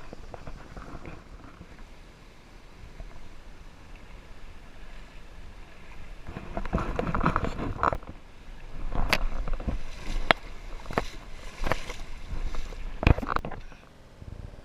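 Creek water sloshing and splashing: a low steady rush at first, then louder irregular splashing in the second half, broken by several sharp knocks.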